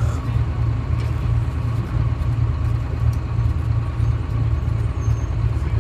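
GMC New Look bus's Detroit Diesel 6V71 two-stroke diesel idling with a steady, even low pulse.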